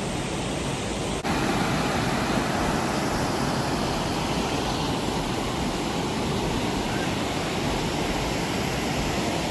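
Steady rush of a waterfall's falling water, a little louder from about a second in.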